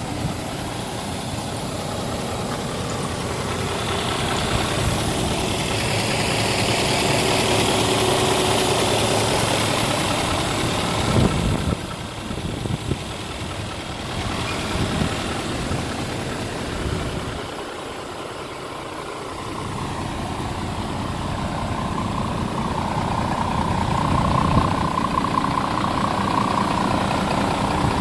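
Scania R410 tractor unit's 13-litre six-cylinder diesel engine idling, its level drifting louder and softer, with a single knock about eleven seconds in.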